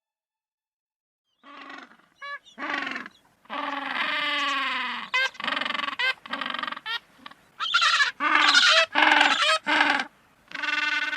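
A man doing vocal bird-call imitations: a string of short pitched calls, quick trills and longer wavering calls, starting about a second and a half in.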